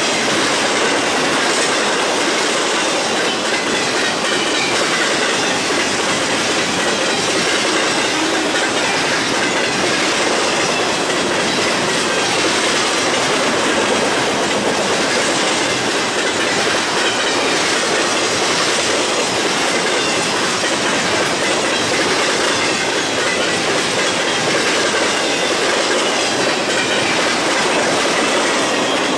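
Cars of a BNSF intermodal freight train rolling steadily past at speed, wheels clattering on the rails with a faint high wheel squeal.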